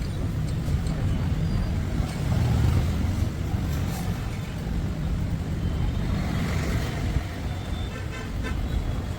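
Steady low rumble of motor vehicle traffic, with a brief horn-like toot near the end.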